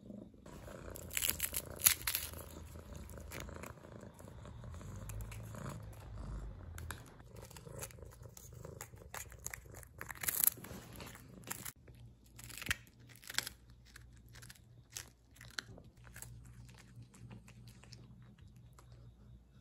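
A kitten chewing and crunching a dried capelin, with irregular crisp bites close by over a low steady hum in the first several seconds.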